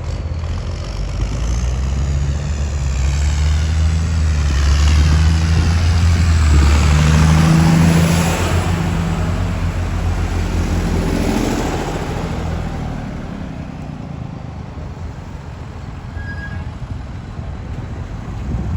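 Vintage tractor engines driving past one after another, growing louder to a peak about seven or eight seconds in, with a second, smaller pass soon after, then easing off.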